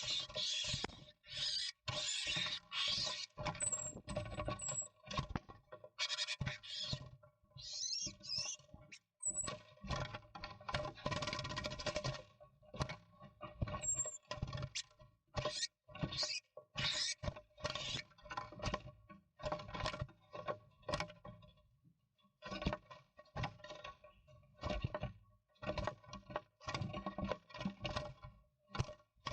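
Scuffling, scraping and knocking inside a wooden nestbox as a great spotted woodpecker reaches in through the entrance hole and grabs at a great tit. Irregular bursts of scratching and knocks run through, with a few short high squeaks.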